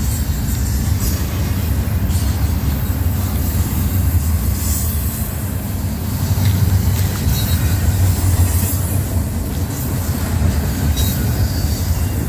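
Double-stack intermodal container train on well cars passing close by: a steady, loud low rumble of wheels rolling on the rails, with a few faint clicks from the wheels along the way.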